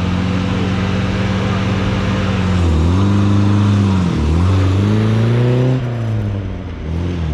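Classic rally car engine idling steadily, then its revs dip and climb a few times as the car is driven off, before settling back near the end.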